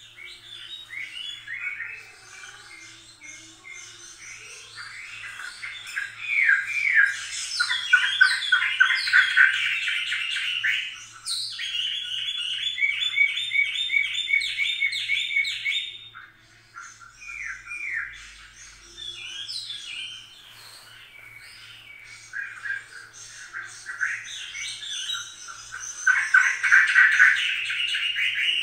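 Birds chirping and singing in quick trills of repeated notes, loudest a third of the way in and again near the end.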